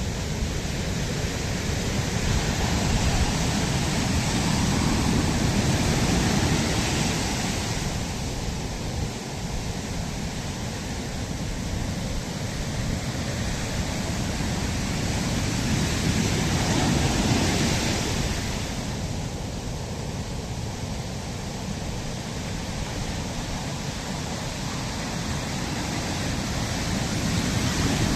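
Sea waves washing up a sandy shore, swelling and ebbing in slow surges roughly every twelve seconds.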